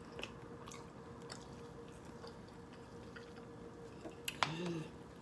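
Quiet eating of chicken wings: faint chewing and small wet mouth clicks and smacks, with a brief 'mm' hum about four and a half seconds in, over a faint steady hum.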